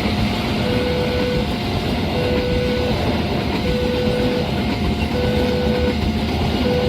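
Railway level-crossing warning alarm sounding a repeating two-tone high-low signal, one cycle about every one and a half seconds, over the steady noise of a passing train.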